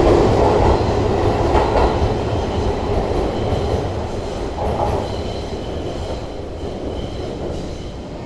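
Tobu 20050 series commuter train pulling out of the station and moving away, its running noise and wheel rumble fading steadily over several seconds.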